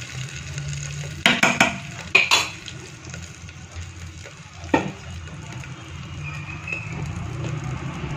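Tadka of whole spices and crushed ginger-garlic sizzling in hot oil in a pressure cooker, with a spoon stirring and clinking sharply against the pot a few times in the first five seconds.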